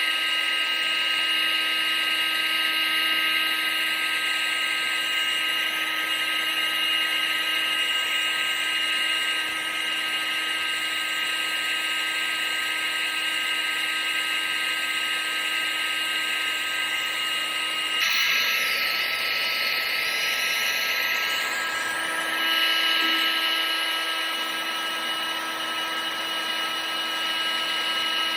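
Vacuum cleaner running steadily: a high motor whine over rushing air. About two-thirds of the way through the whine wavers and changes pitch for a few seconds, then settles back.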